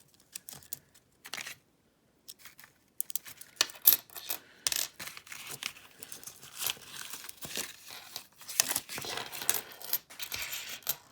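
Copper pennies clinking and sliding against each other as they are handled and sorted by hand, with some rustle of paper. There is a brief pause about two seconds in, after which the clicking is busier.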